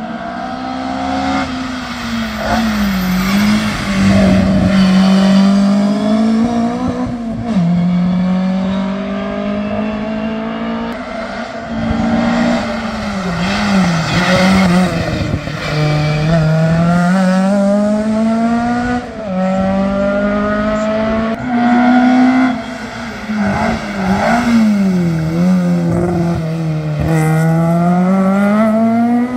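Historic competition car engine at full throttle on a hillclimb run. Its pitch climbs and then falls sharply again and again as it works through the gears and brakes for corners.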